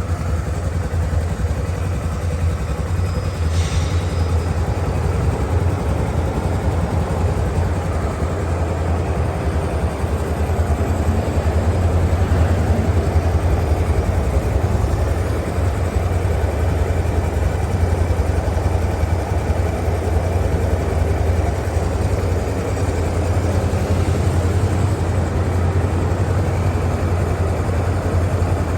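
Honda CBX 250 Twister's single-cylinder four-stroke engine idling steadily, with a brief click about three and a half seconds in.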